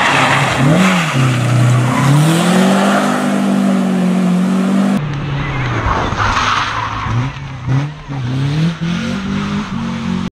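Renault Kangoo rally car's engine revving hard and accelerating through the gears, its pitch climbing and dropping back at each shift, as the car passes close by about six seconds in. Tyres scrub and squeal through the bend.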